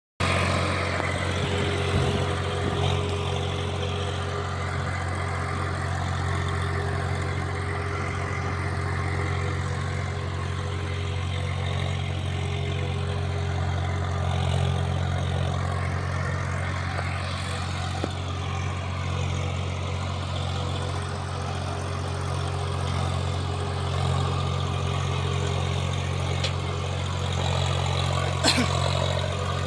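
A tractor's diesel engine running steadily with a deep, even drone, with one sharp knock near the end.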